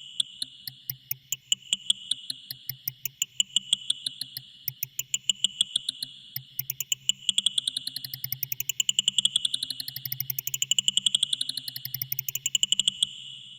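Experimental electronic sound: a steady run of sharp clicks, a few a second at first and growing denser, over a steady high tone and a low hum. From about halfway through, rising pitch sweeps repeat over and over and build up before it all stops near the end.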